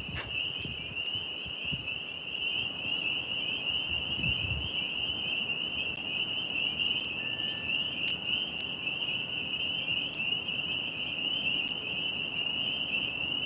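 A steady, high-pitched trilling chorus of small night-calling animals, with a few faint low rumbles about four seconds in.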